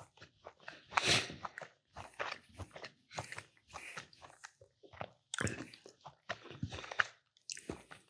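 Close-miked chewing and crunching of small crunchy cookies in a person's mouth, in irregular bites, with a loud crunch about a second in.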